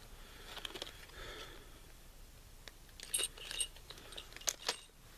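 Light metallic clicks and clinks of small steel punches and tools being handled. A few clinks carry a brief high ring, with a quick cluster in the second half.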